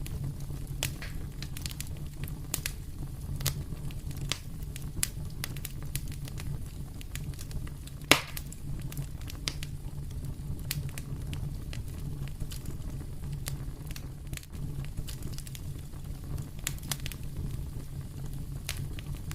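Wood fire burning in a fireplace, crackling with scattered sharp pops over a steady low rumble of flame; one louder pop about eight seconds in.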